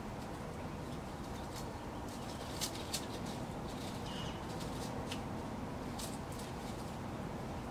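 Outdoor ambience with a steady low rumble. Over it come a few sharp high clicks, the two loudest near the middle, and one brief high chirp from a small songbird about four seconds in.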